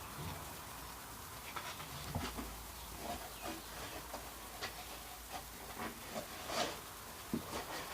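Faint, irregular scrapes and clicks of a plastic container being cut by hand, with a slightly louder scrape about six and a half seconds in.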